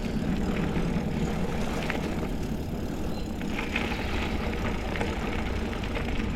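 Mountain bike rolling along a dirt double track: a steady rumble of wind and tyre noise on the camera microphone, with a few light clicks and rattles from the bike.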